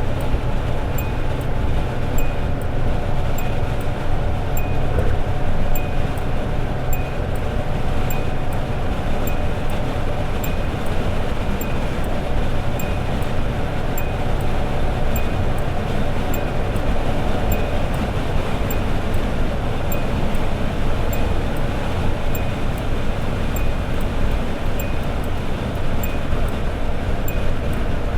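Toyota AE86 Sprinter Trueno's 4A-G four-cylinder engine holding a steady cruise at highway speed, with a low rumble of road noise under it. A faint regular tick runs along about one and a half times a second.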